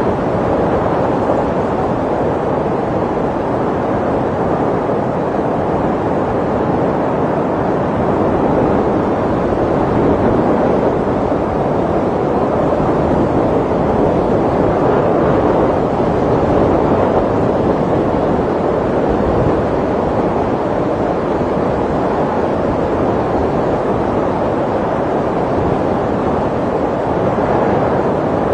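Snowstorm wind blowing as a steady, loud rush that swells and eases slowly.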